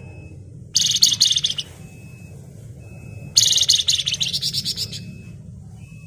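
Flamboyan songbird singing two loud, rapid, buzzing trills (the 'ngebren' style): a short one about a second in and a longer one about three and a half seconds in.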